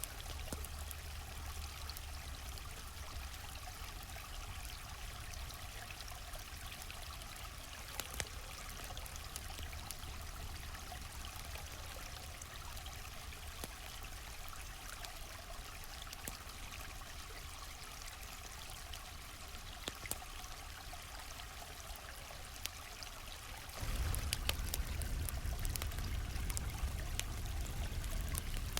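Stream water flowing and trickling steadily, mixed with a campfire crackling, with a sharper pop about 8 s in and another about 20 s in. About 24 s in the water gets louder and deeper, and the crackles come more often.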